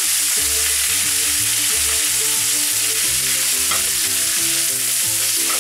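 Sliced bell peppers and onion sizzling steadily in hot olive oil in a frying pan as they are stirred with a plastic spatula. Background music plays underneath.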